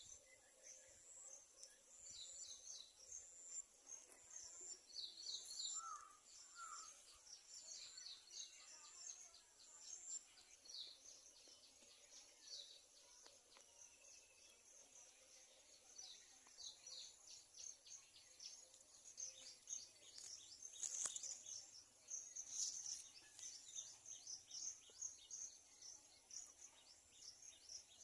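Faint birdsong: many short, high chirps repeating again and again, over a steady high insect drone.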